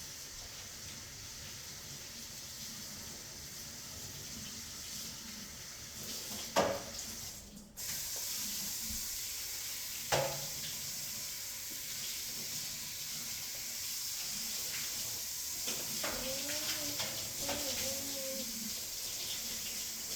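Steady hiss of running water, cut off for a moment about seven and a half seconds in and then louder. Two sharp knocks come about six and a half and ten seconds in, and a voice hums briefly near the end.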